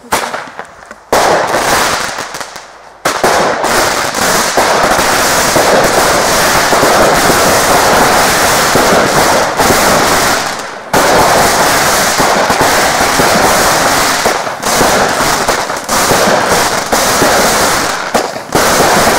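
Fireworks going off in rapid succession: a sudden bang at the start, then from about three seconds in a dense, continuous barrage of bangs and crackles with only a few brief breaks.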